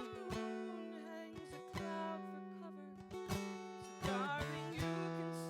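Acoustic guitar strummed and picked, with chords ringing on between the strokes, accompanying a slow song.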